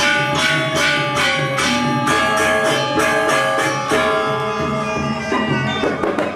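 Balinese gamelan playing: bronze metallophones struck in a quick, even pulse of about four strokes a second, their notes ringing on, with the playing growing busier and less regular near the end.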